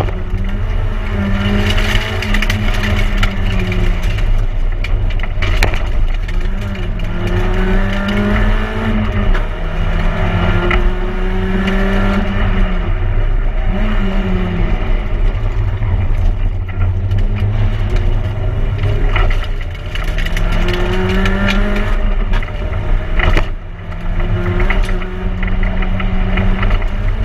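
Peugeot 106 1600 rally car's four-cylinder engine heard from inside the cabin, driven hard on a stage: its pitch repeatedly climbs under full throttle and drops at each gear change or lift, with sharp knocks from the car.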